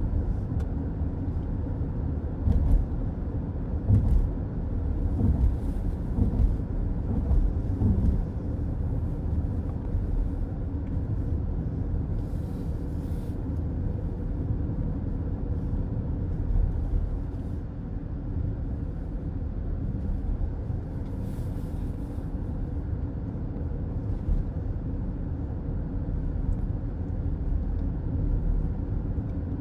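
Steady low road and tyre rumble of a car driving on a highway, heard from inside the cabin, with a few brief louder knocks and hisses along the way.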